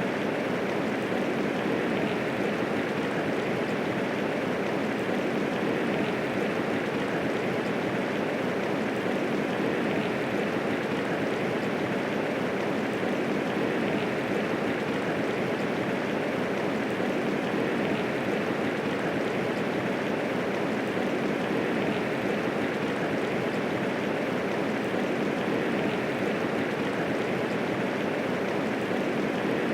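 Steady medium rainfall, a constant even hiss with no thunder and no separate drops standing out.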